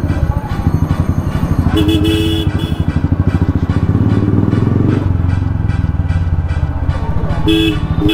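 Royal Enfield motorcycle's single-cylinder engine running at low speed with a steady, evenly pulsing beat. A vehicle horn honks twice, briefly about two seconds in and again near the end.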